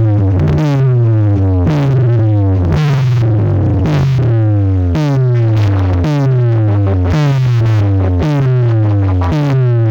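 Loud electronic competition music from a DJ sound system: a heavy bass note with a falling synth sweep, repeating a little under twice a second.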